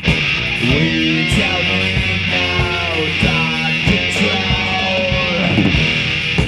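Rock band playing live: a lead electric guitar with bending, gliding notes over drum hits and a steady bass line.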